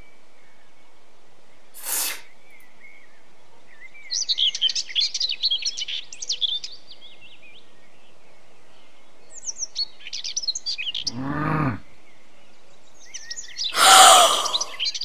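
Small birds chirping and twittering in short bursts as a background ambience. There is a short hiss about two seconds in, a pitched sound falling steeply near the eleven-second mark, and a loud burst near the end.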